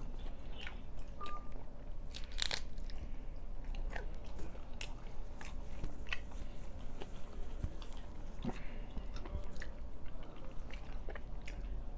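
A man chewing and biting paratha flatbread with egg: irregular small mouth clicks and crunches, the loudest about two and a half seconds in.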